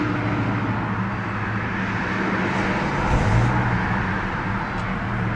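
1998 Volvo S70's five-cylinder engine idling steadily, with a brief rise in pitch about three seconds in.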